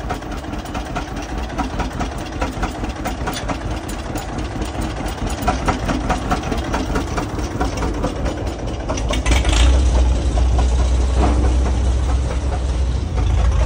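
Antique tractor engines running with a dense, regular knock of firing strokes. About nine seconds in, a heavier low rumble comes in and the sound grows louder.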